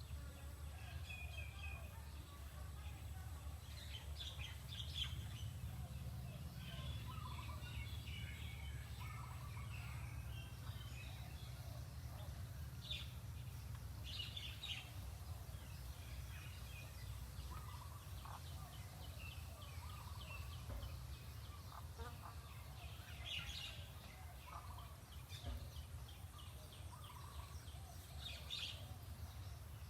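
Birds calling and chirping in short scattered calls, over a steady low rumble.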